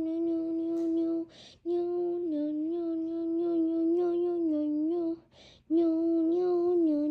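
A high voice holding one sung or hummed note at nearly the same pitch, dipping slightly now and then, and stopping twice for a quick breath.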